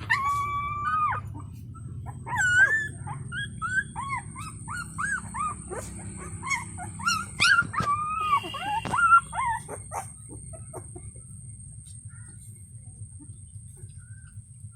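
Young puppies whining and yelping for their mother: a quick string of short, high cries that bend up and down in pitch, thinning out to a few faint whimpers after about ten seconds. A faint, thin, steady high whine runs beneath them.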